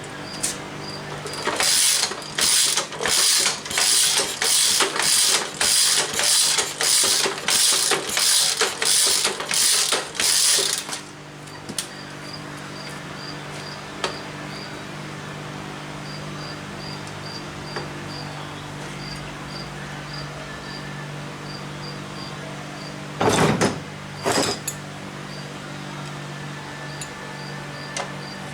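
A hand tool worked in a steady run of quick, sharp strokes, about two a second, for some nine seconds, with two louder short scrapes later on. Crickets chirp steadily and a low hum runs underneath.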